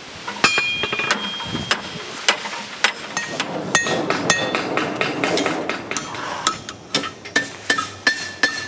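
Forging hammers striking steel on anvils, irregular ringing blows a few times a second, some overlapping.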